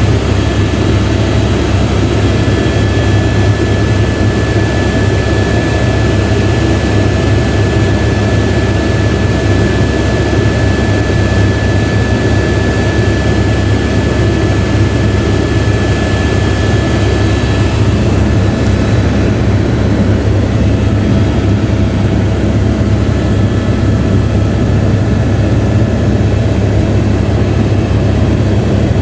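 Helicopter running steadily: a loud, even deep drone with a thin high whine above it that fades out about two-thirds of the way through.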